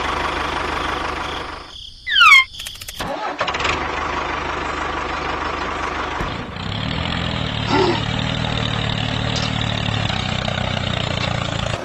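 Vehicle engine noise, broken just after two seconds by a short, loud falling squeal; from about six and a half seconds the engine idles steadily.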